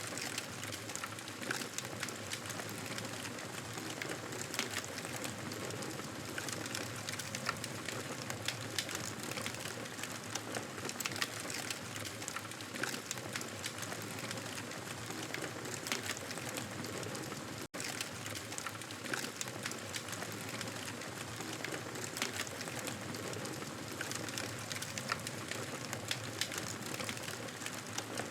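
Wood fire crackling: a steady hiss full of frequent sharp pops and snaps, cutting out for an instant about two-thirds of the way through.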